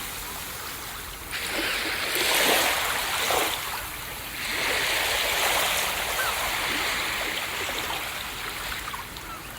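Ocean waves breaking and washing up a beach in a steady hiss of surf, swelling about a second in and again about halfway, then easing off near the end.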